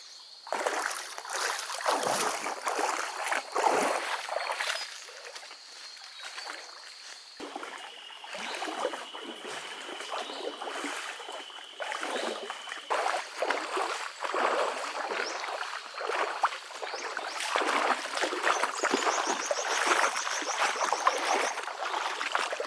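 Irregular splashing and sloshing of water, with a steady thin high tone behind it for much of the time.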